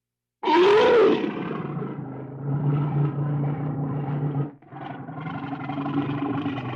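A large animal's vocal call: a loud cry that rises and falls in pitch starts about half a second in, then runs on as a long, low rumbling call, broken once briefly near the end.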